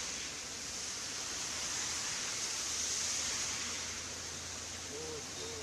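Heavy rain pouring down on a city road, a steady, even hiss. Near the end a low engine hum from passing traffic comes in under it.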